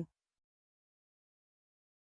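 Silence: a blank pause in the audio.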